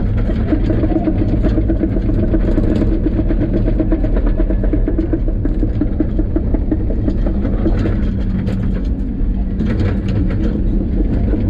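Engine of a tracked heavy machine running steadily under load, with a rattling ripple through the first half.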